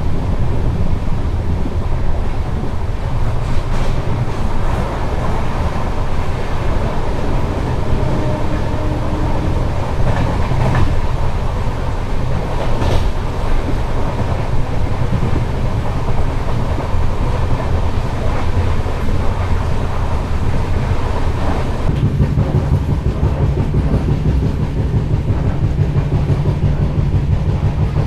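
Passenger train running at speed, heard from on board a coach: a steady rumble of wheels on the rails with occasional clacks over rail joints, the low drone shifting in pitch a little after twenty seconds.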